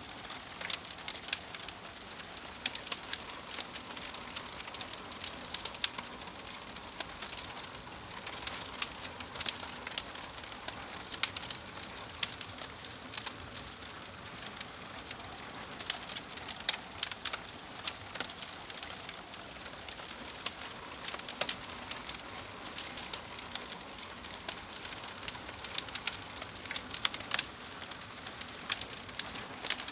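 Wood fire crackling: irregular sharp snaps and pops, several a second, over a steady hiss.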